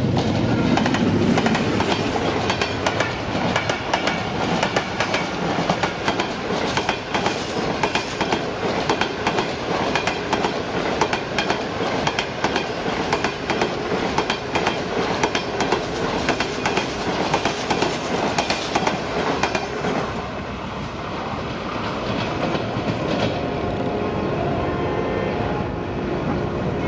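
Passenger coaches of a long express train passing close at speed, wheels clacking rapidly over the rail joints. About 20 seconds in, the clacking gives way to a steadier rumble.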